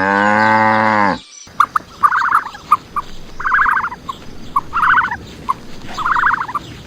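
A cow mooing, cut off about a second in, then a different animal calling in a series of short calls, about one every second and a half.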